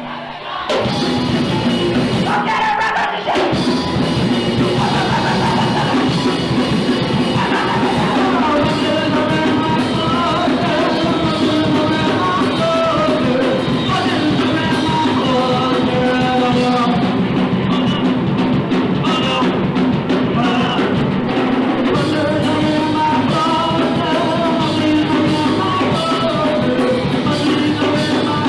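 Punk rock band playing live: distorted guitars, bass and drum kit with a vocalist singing over them. The band starts up again after a brief drop right at the start.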